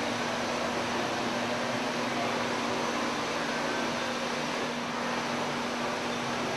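Steady mechanical hum and hiss with one constant low tone, unchanging throughout.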